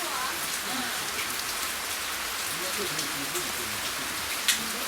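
Steady hiss and patter of falling water with many small drop ticks, and one sharper tap about four and a half seconds in.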